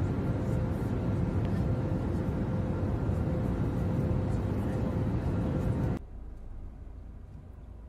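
Steady low vehicle rumble with a faint steady hum, dropping to a quieter low hum about six seconds in.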